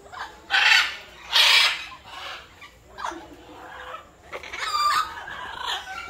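Loud, harsh bird calls: two strong squawks in the first two seconds, then several shorter, softer calls.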